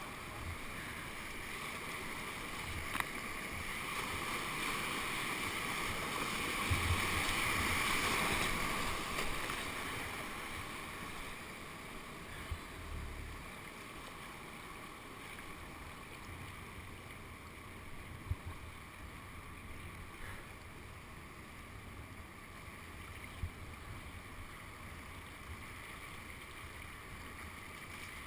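Rushing whitewater in a man-made whitewater channel, getting louder for a few seconds about seven seconds in, with a few short low knocks.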